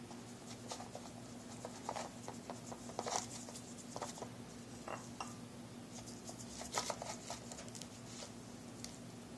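Scattered light taps and clicks of small hard objects on a hard surface, a few louder ones about three seconds in and near seven seconds, over a steady low hum.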